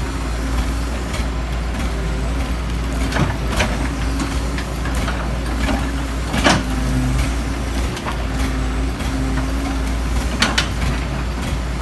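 Heavy diesel engine of a working excavator running steadily with a low rumble, with a few sharp knocks over it, the loudest about halfway through.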